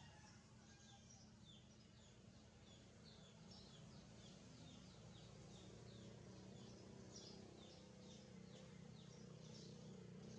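Faint, fast series of short high bird chirps, each falling in pitch, about three a second, over a low steady hum.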